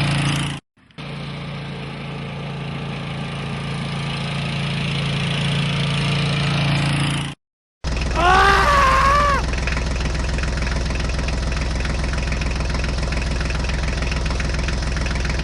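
Engine idling steadily, with a fast even pulsing, broken by two abrupt cuts. After the second cut it comes back lower and heavier, with a brief wavering whistle-like tone just after it.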